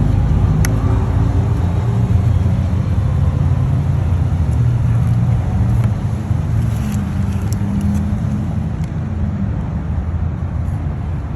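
Steady low rumble of a motor vehicle running, with a faint hum that wavers slightly in pitch.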